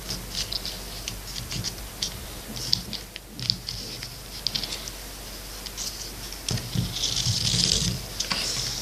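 Small plastic parts being handled and fitted by hand: irregular light clicks and taps, then a stretch of rubbing or scraping about seven seconds in.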